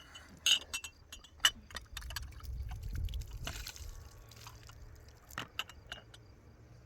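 Scattered light clinks and taps of small hard objects being handled, with a brief rush of noise around the middle and a low rumble underneath.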